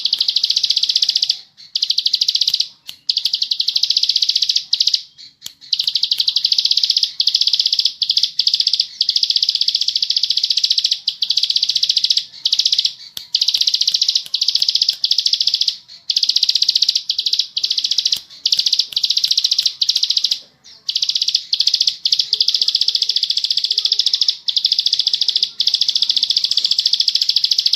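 Plain prinia (ciblek sawah) singing a long, rapid, buzzy trill almost without pause, in long runs broken only by brief gaps.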